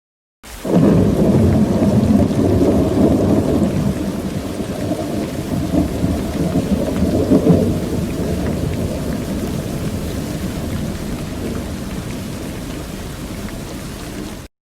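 Thunderstorm sound effect: a long rolling rumble of thunder over steady rain. It starts suddenly about half a second in, swells again about halfway through, then slowly fades and cuts off abruptly near the end.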